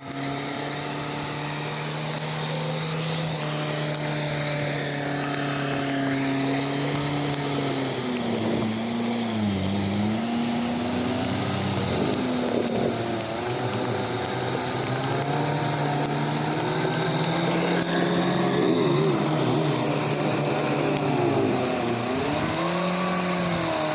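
A vehicle engine revving, its pitch rising and dipping several times as a tyre spins and slips on wet ground, over a steady hiss of heavy rain.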